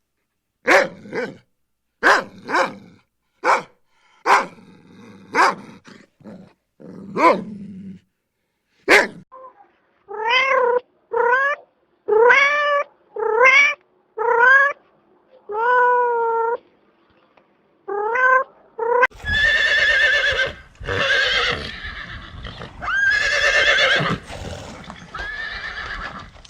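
A run of animal calls: short sharp calls in quick succession, then about nine pitched calls roughly a second apart that rise and fall, then longer, louder, rougher calls near the end.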